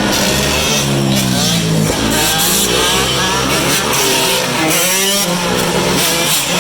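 Motorcycle engines revving as they ride past, their pitch rising and falling again and again, with more than one engine heard at once at times.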